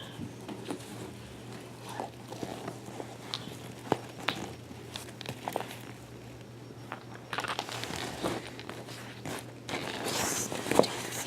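A soft-sided faux-leather cat carrier being handled for ASMR: scattered taps, clicks and scratches on the material, turning into louder, denser rustling from about seven seconds in.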